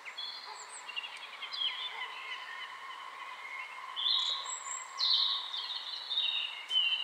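Birds singing, a run of short warbling, chirping phrases that grow louder from about four seconds in, over a steady background hiss.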